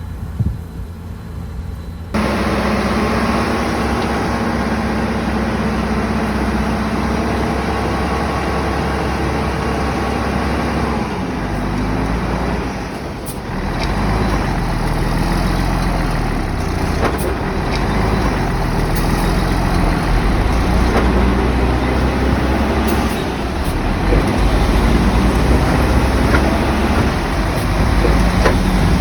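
Komatsu bulldozer's diesel engine running hard, its pitch rising and falling as it works, with a few sharp metallic clanks. It starts abruptly about two seconds in.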